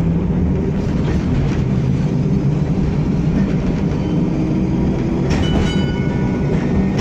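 W6-class tram running along the track, heard from on board: a steady low rumble of wheels and motors. About five seconds in comes a short clatter with a brief high ring.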